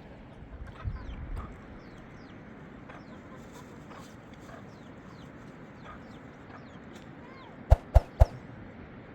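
Chickens clucking, with short high falling peeps repeating throughout. About three-quarters of the way in come three sharp knocks in quick succession, the loudest sounds here.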